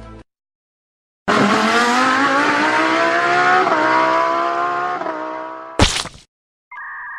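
Sound effect of an engine revving, its pitch climbing slowly for about four and a half seconds, cut off by a short sharp clunk. About a second later a steady electronic beep tone begins.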